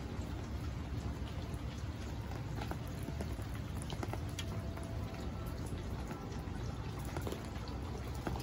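Rain falling on a swimming pool's water: a steady patter of many small drop ticks over a low, steady rumble.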